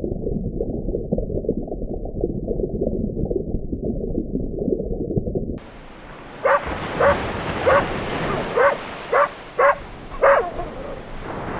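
A few seconds of low, muffled rumbling noise, then an animal gives about seven short barking calls roughly half a second apart.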